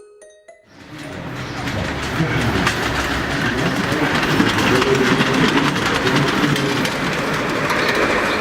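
Garden-railway train running along its track, its wheels clicking rapidly over the rails, growing louder over the first two seconds and then running steadily. The last few chime notes of an intro tune end just at the start.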